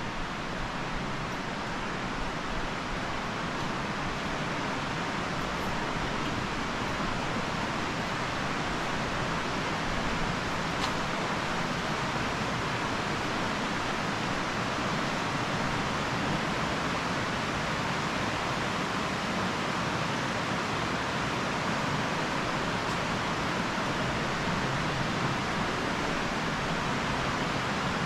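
Steady rushing of flowing water, growing a little louder over the first few seconds and then holding even.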